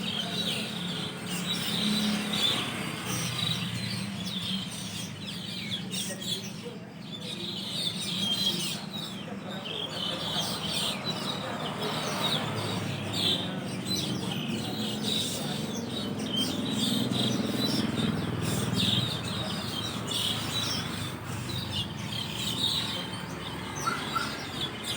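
A flock of Asian glossy starlings calling together from a roost tree, a constant chatter of many overlapping short, sharp chirps and whistles.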